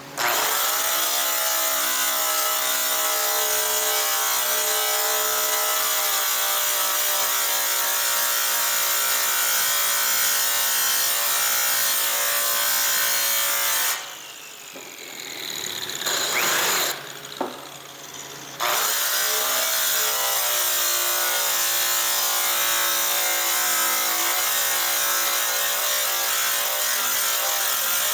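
Handheld electric power tool running steadily while polishing a metal aircraft exhaust pipe. About halfway through it is switched off and winds down, is briefly run up again, then starts back up and runs on.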